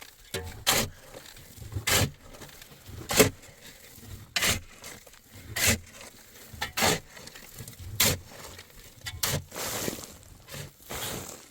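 Repeated scraping strokes at a steady pace, about one every 1.2 seconds, with a longer scrape near the end.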